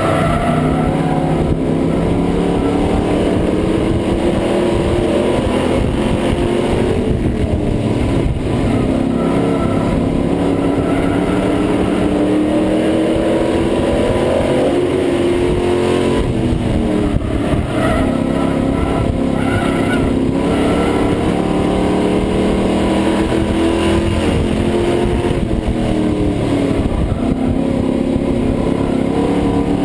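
Pro Truck race engine heard from inside the truck under racing load, loud and continuous. Its pitch repeatedly falls and climbs again, dipping for a few seconds at a time as the truck comes off and back onto the throttle.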